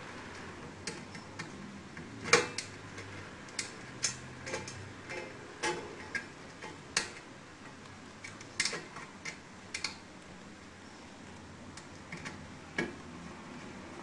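Irregular clicks and light knocks of small parts and tools being handled during repair work on a chocolate fountain's circuit board. The clicks come unevenly, a dozen or so in all, with the sharpest about two seconds in.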